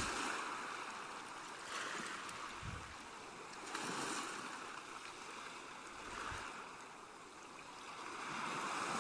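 Faint rushing, water-like background noise that swells and fades several times.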